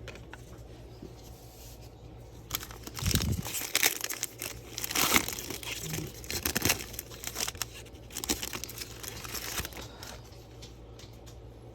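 Foil wrapper of a trading-card pack being torn open and crinkled, in irregular scratchy bursts for several seconds, loudest a few seconds in.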